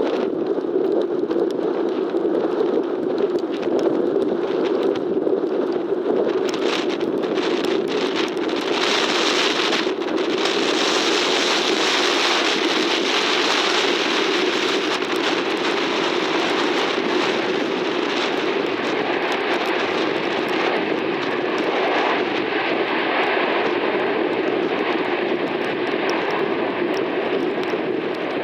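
A jet airliner's engines swell up from about a third of the way in, with a faint steady whine in the second half, over constant wind and rain noise.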